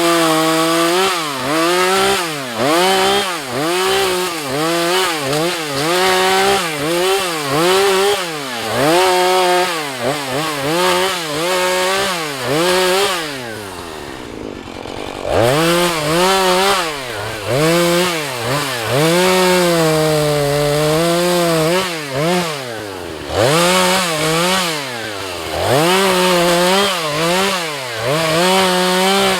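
Husqvarna 435 two-stroke chainsaw cutting wood, its engine revving up and dipping over and over, about once a second, as the chain goes into the cut. About halfway through it drops back toward idle for a second or two, then is throttled up and cuts again.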